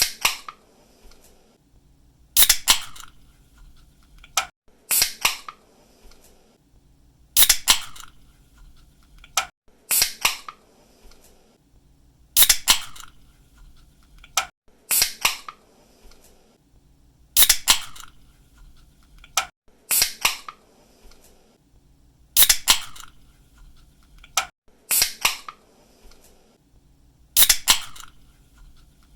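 Aluminium drink can's pull tab snapping open, a sharp crack followed by a short hiss, repeated about every two and a half seconds.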